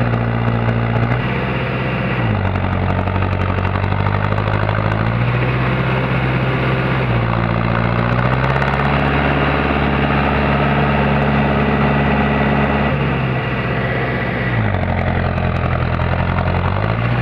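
Mahindra Arjun Novo tractor's diesel engine running under load, its speed sagging and picking up again about three times as the stuck tractor strains to get free.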